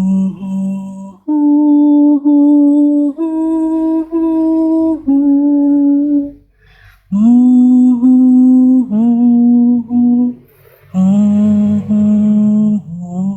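A person humming a slow tune in long, steady held notes, in phrases broken by short pauses.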